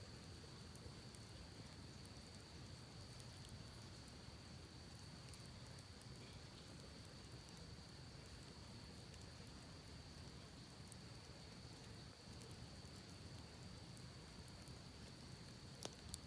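Campfire crackling faintly with sparse small pops and one sharper pop near the end, over the steady low rush of a creek. A steady high-pitched whine runs underneath.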